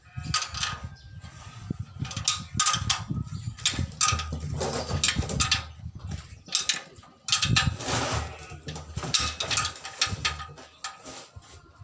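Metal parts and hand tools clicking and clanking irregularly during repair work on a grass-cutting machine, with many sharp clicks and some low rumbling handling noise.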